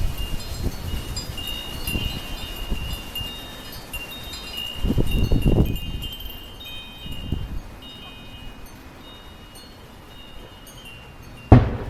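Metal wind chimes ringing over and over in gusty wind, with wind buffeting the microphone, hardest about five seconds in. Near the end a sudden very loud crash breaks in, followed by a low hum: a large old tree falling and tearing down power lines.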